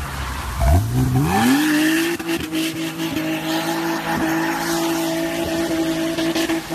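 BMW E30's engine revving up hard in about a second, then held at steady high revs while the rear tyres spin and slide on wet asphalt.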